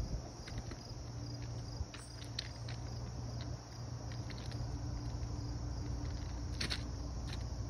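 Insects trilling steadily in a high, pulsing chorus over a low steady rumble, with scattered footsteps on track ballast.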